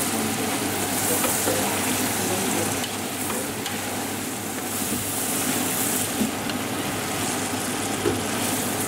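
Mixed vegetables frying and sizzling in oil in a large pot as they are stirred with a metal ladle, a steady sizzle with stirring noise. Two brief knocks sound later on.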